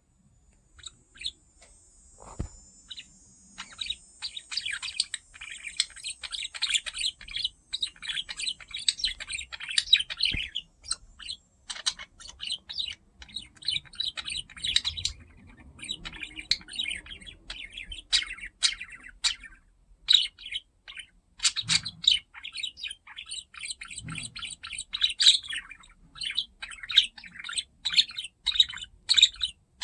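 Budgerigar chattering and warbling in a rapid, near-continuous run of short chirps, with brief pauses.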